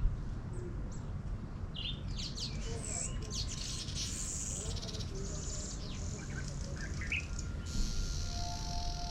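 Small birds chirping and calling in short rising and falling notes, with a dense buzzy high trill through the middle, over a steady low rumble. Near the end a sustained ringing chord of several steady tones comes in.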